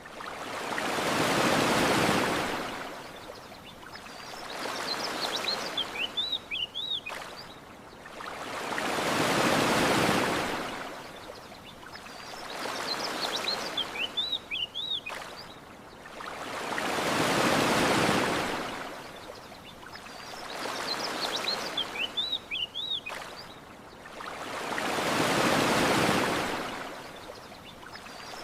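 Gentle ocean surf washing on a shore, swelling and fading about every four seconds, with bigger and smaller swells in turn. Short high bird chirps come in small clusters between the swells.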